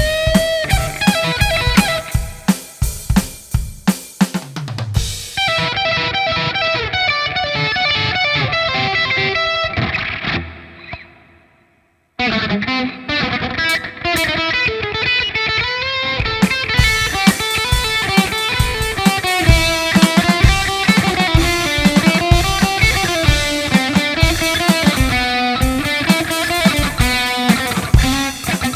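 A band playing: guitar over a drum kit. About ten seconds in, the music fades away and drops out for under a second, then the guitar and drums come back in together.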